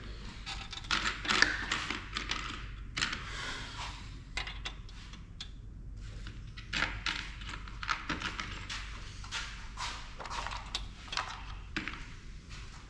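Hand tools working on a printer's parts: irregular clicks, knocks and short scrapes of metal and plastic as different screwdriver bits are tried.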